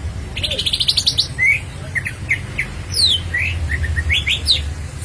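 Greater green leafbird (cucak ijo) singing: a quick rattling run of notes, then a string of short, sharply sliding whistles. A steady low hum runs underneath.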